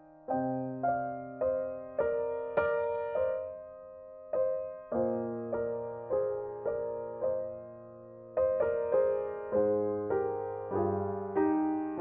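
Background music of slow, gentle piano notes and chords, each struck and left to fade.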